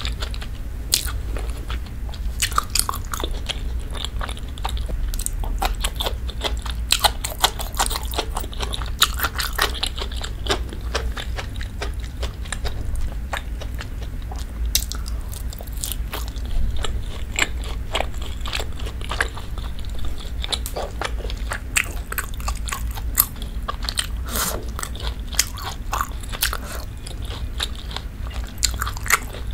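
Close-miked chewing of beef steak and creamy pasta: many short, wet mouth clicks and smacks, over a steady low rumble.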